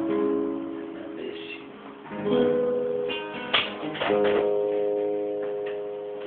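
Guitar strumming chords that ring on and slowly fade, with fresh strums about two seconds in and again a little later: the closing bars of the song after the last sung line.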